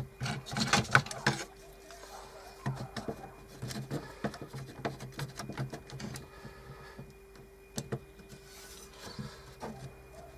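Pieces of wood and tools being handled and set down on a workbench: irregular knocks, clicks and scraping, busiest in the first second or so, over a faint steady hum.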